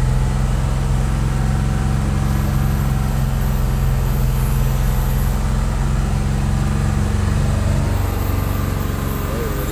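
Truck engine running at a steady, even pitch, a low drone.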